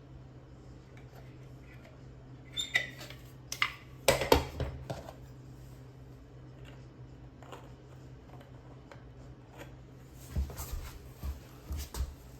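A few clusters of sharp clicks and knocks, like tools being handled, over a steady low hum.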